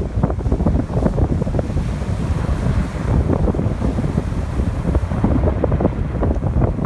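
Strong wind buffeting the microphone with a steady low rumble, over surf washing onto the beach.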